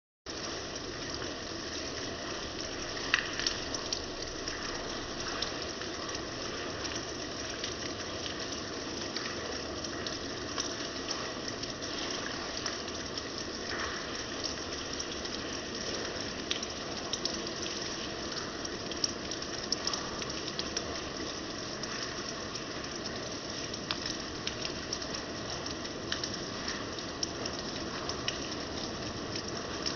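Steady rain falling, with scattered louder drops ticking sharply on a surface.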